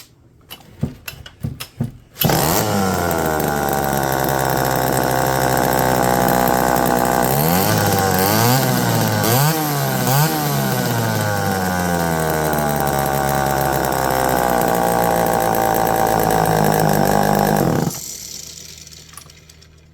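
Homelite EZ two-stroke chainsaw pull-started: a few short starter sounds, then the engine catches about two seconds in and runs steadily, with several quick revs up and down in the middle, before cutting off suddenly.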